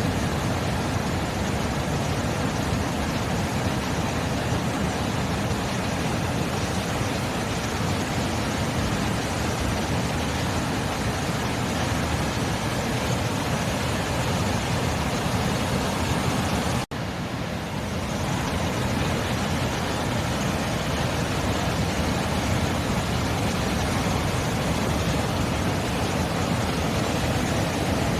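Sea surf: a steady, unbroken wash of breaking waves, cutting out for an instant about two-thirds of the way through.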